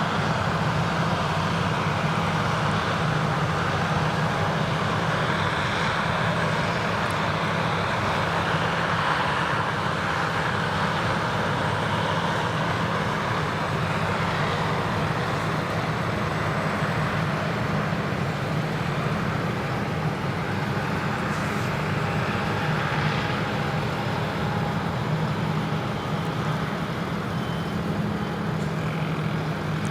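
Krone Big X 1100 self-propelled forage harvester working under full load, its Liebherr V12 diesel running at a steady, even pitch under the continuous rush of the crop going through the intake and chopper.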